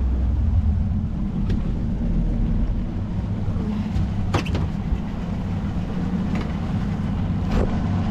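A small boat's outboard motor running steadily, with a few light knocks over it.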